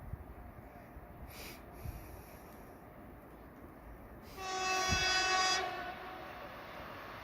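Train horn sounding one steady blast of about a second, a single held pitch, as a train approaches along the line; rising rail noise of the oncoming train builds toward the end.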